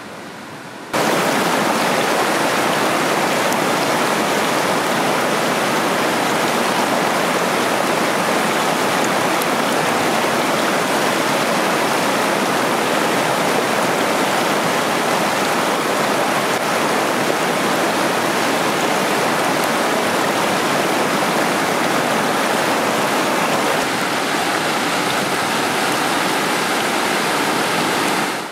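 Water rushing steadily over a rocky hill-stream cascade, a loud, even rush that starts abruptly about a second in.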